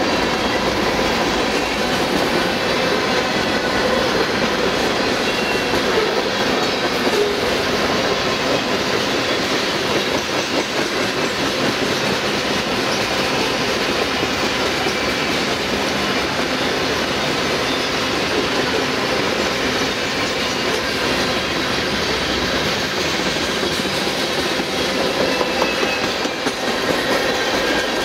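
Freight train cars rolling steadily past: a continuous rumble and rattle of steel wheels on rail, clacking over rail joints.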